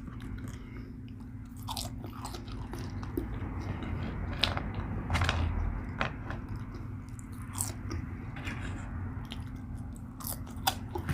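Close-up chewing and biting of fast food, with scattered wet mouth clicks and smacks over a low steady hum.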